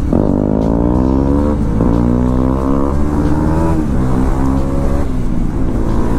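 Bajaj Dominar motorcycle engine pulling hard through the gears, its note climbing, then dropping sharply at each upshift, three times, with wind rushing past.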